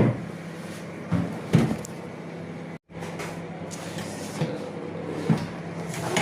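A few short knocks and bumps, like a cupboard or appliance door being handled, over a steady low electrical hum.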